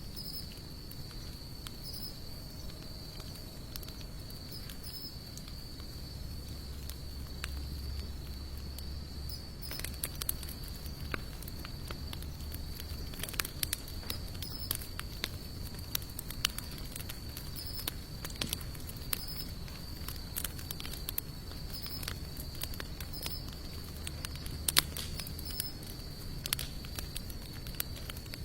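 Wood fire of sawtooth oak and mixed hardwood logs crackling, with scattered sharp pops that come more often from about ten seconds in. A steady high insect trill runs underneath, with a low rumble.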